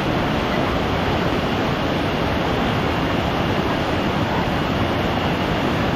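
Steady, loud rush of fast-flowing river water, an even roar with no break.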